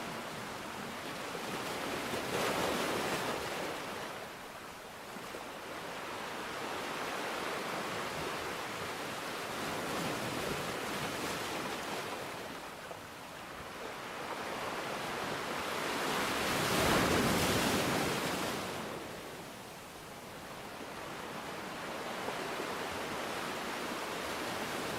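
Ocean surf: a steady rushing wash that swells and fades in three slow surges, the loudest about two-thirds of the way through.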